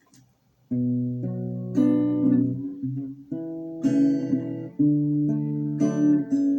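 Acoustic guitar playing the intro of a song, chords changing about once a second with sharper strokes every two seconds or so, starting about a second in after a brief quiet.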